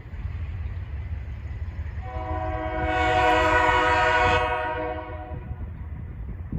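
Diesel locomotive horn sounding one long blast, about three seconds, over the low rumble of the passing train.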